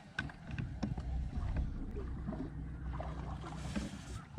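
Steady low hum, typical of a boat's electric trolling motor, with scattered sharp clicks and knocks over it. The hum starts about a second in and fades near the end.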